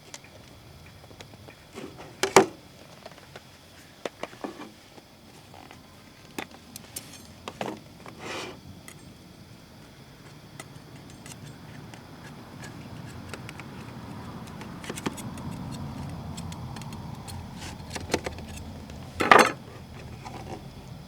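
Metal cookware and utensils clinking and knocking now and then, with two louder knocks, one about two seconds in and one near the end. A low, steady rushing sound swells through the middle.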